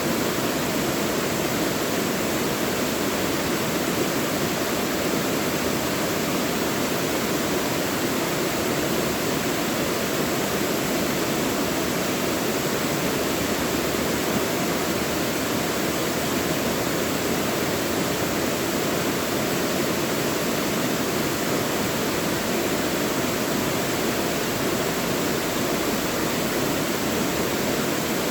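Mountain valley stream rushing steadily over rocks, a continuous even rush of water.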